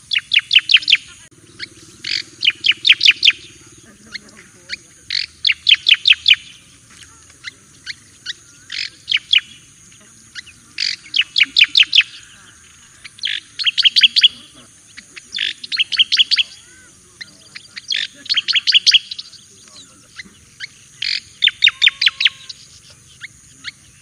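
Striated grassbird (cica koreng jawa) singing: short phrases of rapid, sharp repeated notes, each about a second long, given about every two seconds. A faint steady high hiss lies underneath.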